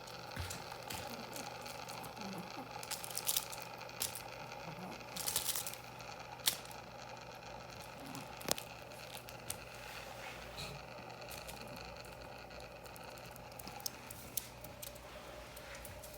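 Scattered small clicks and brief crinkling rustles over a steady low background hum.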